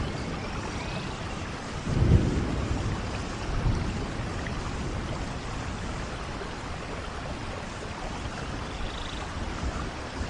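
Steady rain falling, with a low rumble of thunder swelling about two seconds in and a smaller one near four seconds.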